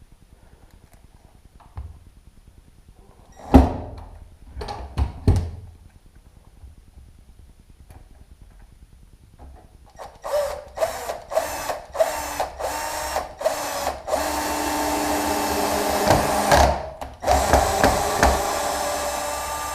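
A few knocks, then a power drill-driver driving self-tapping screws through a door hinge into wood. It starts with short bursts about halfway through, then two longer steady runs near the end.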